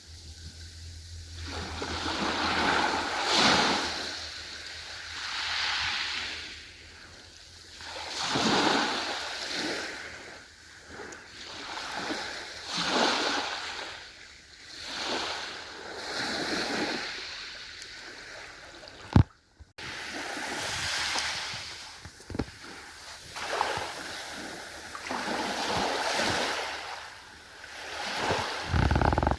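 Ocean waves breaking and washing in, the surf swelling and fading every few seconds. About nineteen seconds in there is a sharp click with a brief moment of silence.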